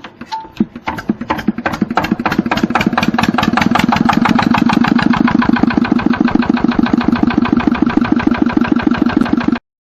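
A homemade tractor's engine starting. Its firing is slow and uneven at first, picks up speed over the first few seconds, then settles into a steady running rhythm, and it stops abruptly near the end.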